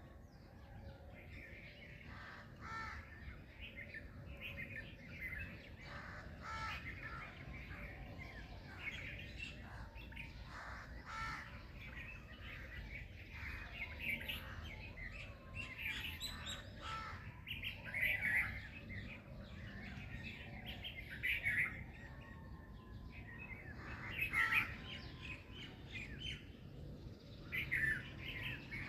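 Several songbirds chirping and singing, with many short calls and trills overlapping, a few louder ones standing out, over a faint low steady background rumble.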